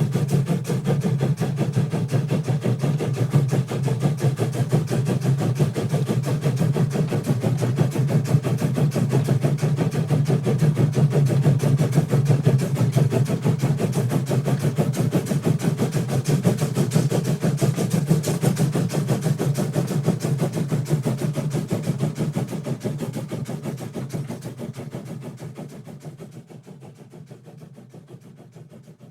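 A train running: a steady low mechanical rumble with rapid, even pulsing that fades away over the last few seconds.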